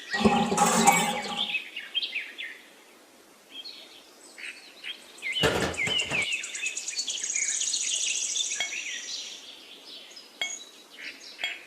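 Birds chirping over a high insect trill, with two brief clattering handling noises, one near the start and one about five and a half seconds in.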